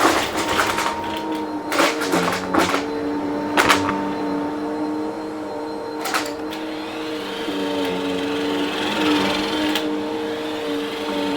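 Vacuum cleaner running with a steady motor hum, with bursts of crackling clicks as crunchy debris rattles up into it, several in the first four seconds and single ones about six and ten seconds in.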